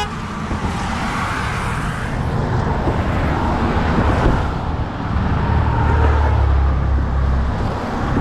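Road traffic noise: a steady rush of cars, with a deeper engine rumble swelling for a couple of seconds past the middle.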